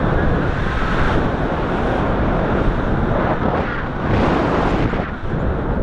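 Strong, gusty wind buffeting the microphone: a steady rush that swells about a second in and again around four seconds in.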